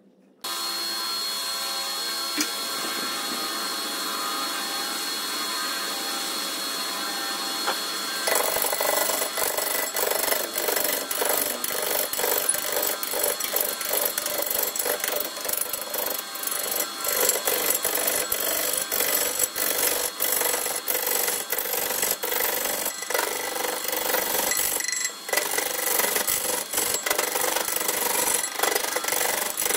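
Wood lathe running with a steady hum; about eight seconds in, a turning tool starts cutting into the spinning wood, adding a louder, rough, rapid scraping.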